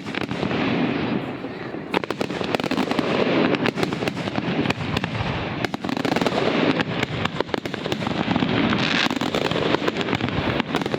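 Fireworks finale: a dense barrage of aerial shells bursting, many sharp reports and crackles overlapping without a break.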